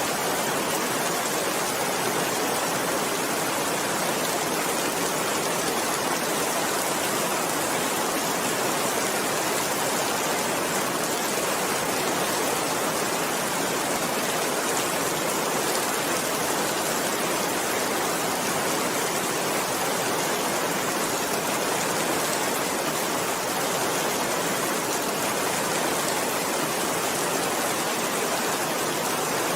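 Steady rain falling, an even hiss of countless drops with no thunder or single drips standing out.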